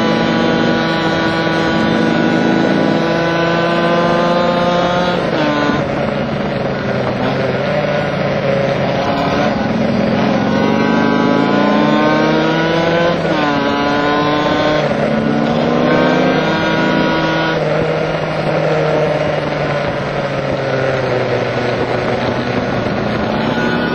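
Kawasaki KH-500's two-stroke triple engine, heard from on board, revving hard through a run of corners. Its pitch climbs and then drops sharply at each gear change or throttle lift, several times over.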